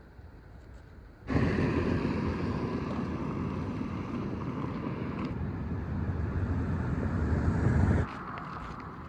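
Road and wind noise of a moving vehicle, with wind on the microphone, starting abruptly about a second in and cutting off sharply near the end.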